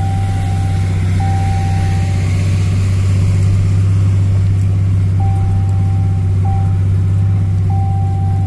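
Truck engine running with a steady low drone heard inside the cab while hauling a load of hay bales. A thin high-pitched beep sounds in uneven on-off stretches over it.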